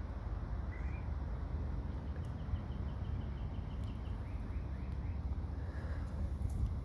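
Faint songbird calls: a short rising chirp, then a quick run of short repeated notes and a few more chirps, over a steady low rumble of wind on the microphone.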